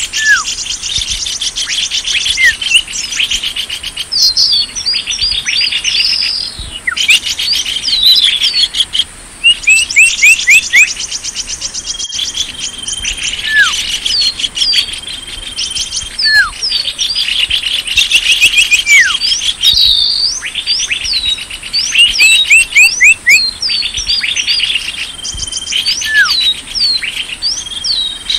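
Bird-lure recording of small birds calling: dense, overlapping high chirps and fast trills, with short falling whistles repeated every second or two.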